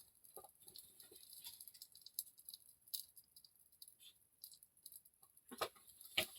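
Tarot cards being shuffled and handled: faint, scattered soft clicks and rustles, with two sharper clicks near the end.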